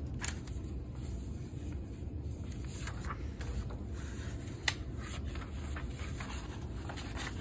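Faint rustling as a paper instruction booklet is handled and its pages turned, with one sharp click a little under five seconds in, over a steady low hum.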